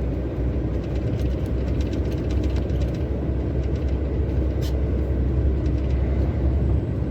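Heavy truck driving on the road, heard inside the cab: a steady low engine and road drone with faint light rattles and ticks over it.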